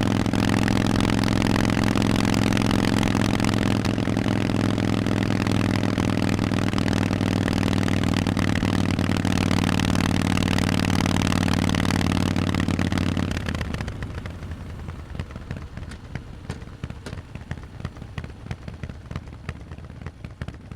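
Harley-Davidson Forty-Eight's air-cooled V-twin through Vance & Hines exhaust pipes, running at a steady, unchanging pitch. About two-thirds of the way in the engine note drops away fairly quickly, leaving a quieter, irregular clatter.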